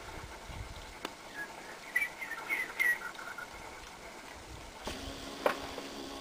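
A small bird chirping several short high notes in quick succession about two seconds in, over faint outdoor background noise. A few sharp clicks occur, and a faint steady hum begins near the end.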